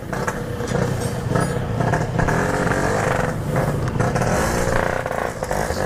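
Yamaha RX-King's two-stroke motorcycle engine running.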